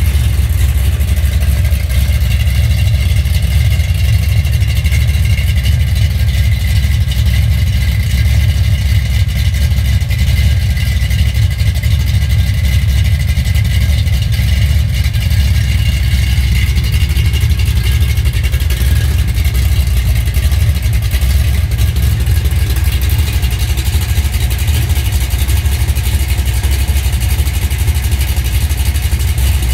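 Freshly rebuilt Chevy 396 big-block V8, fitted with a Straub hydraulic roller cam, idling steadily on an engine run stand. The exhaust pulses out through long-tube headers and a pair of mufflers.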